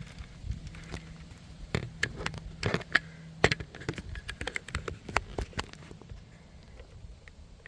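Irregular close clicks, taps and scuffs of a camera being handled and set down, with footsteps. The taps thin out over the last couple of seconds.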